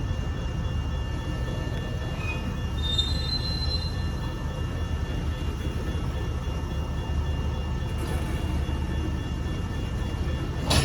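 Freight train cars rolling past with a steady low rumble, and a brief high-pitched wheel squeal about three seconds in.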